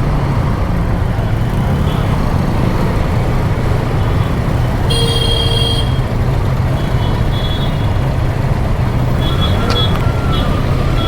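Motorcycle riding through city traffic: a steady low engine and road rumble, with a vehicle horn sounding for about a second around the middle and shorter horn toots near the end.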